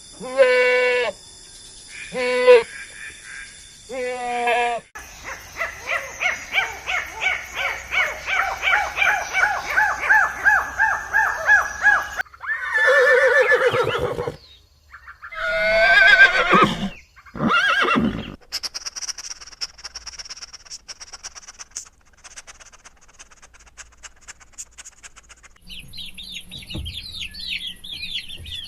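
A run of different farm animal and bird calls, one after another: a few short bleating calls, a long stretch of rapid pulsed calls, several loud drawn-out calls, then high chirping birdsong, with clucking near the end.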